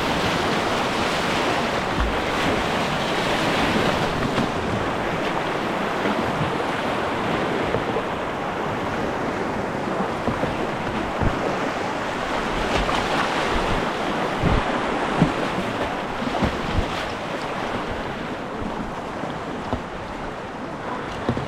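Rushing river water, a steady loud wash that eases slightly near the end, with a few short low thumps.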